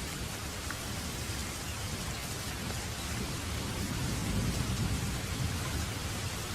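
Steady rain, with a low rumble of distant thunder swelling up about four seconds in and fading again.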